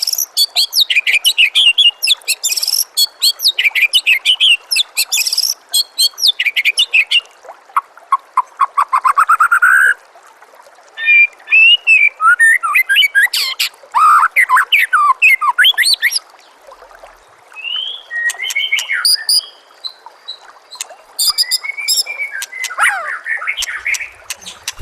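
White-rumped shama (murai batu) singing a varied, fast song: a long run of rapid, sharp chattering notes, a rising trill, then looping whistled phrases after a short break. A steady trickle of running water lies underneath.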